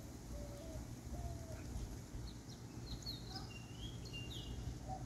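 Birds calling over a steady low outdoor rumble: two short low notes in the first second and a half, then a run of higher chirps and gliding whistles from about two to four and a half seconds in.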